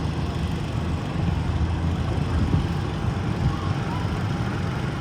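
Garden tractor engine running steadily, a low, continuous engine sound.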